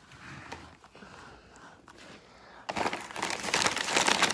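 Paper fast-food packaging being handled, faint rustling at first, then loud, dense crinkling starting about two and a half seconds in.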